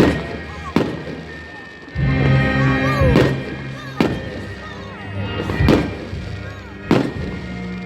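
Fireworks going off over live band music: about six sharp bangs at irregular intervals, with short falling whistles in between, while the band's held notes carry on underneath.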